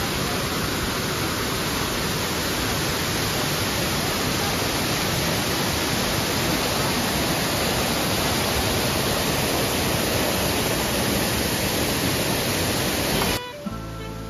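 Waterfall: a steady rush of falling water that cuts off abruptly near the end, where soft guitar music begins.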